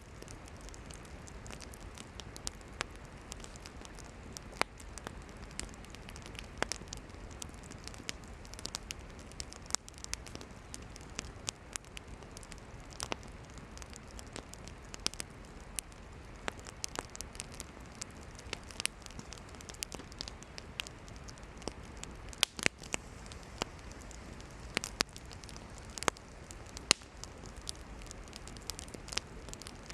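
Campfire of burning firewood crackling and popping, with frequent sharp snaps at irregular intervals over a steady soft hiss.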